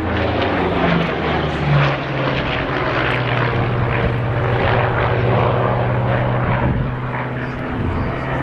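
Douglas AD-4 Skyraider's big radial piston engine and propeller running at display power through a pull-up. Its tone drops in the first two seconds, then holds steady as a continuous drone.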